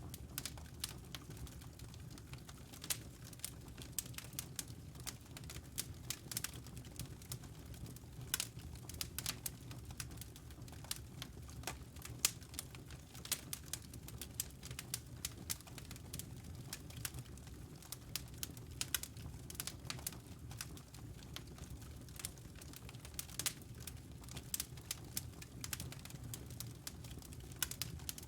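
Wood fire in a fireplace crackling, with irregular sharp pops and snaps several times a second over a steady low rumble of the burning flames.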